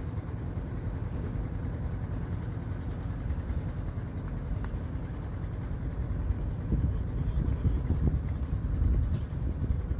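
Strong wind buffeting the microphone, a low rumble that gusts louder in the second half.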